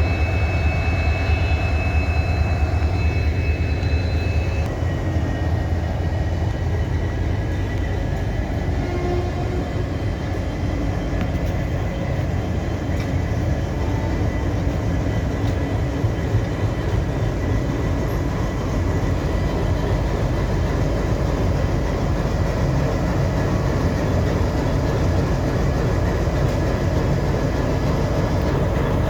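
EMD WDP4D diesel-electric locomotive's two-stroke V16 engine running with a steady, loud low hum. A set of high steady tones cuts out about four and a half seconds in, leaving an even rumble.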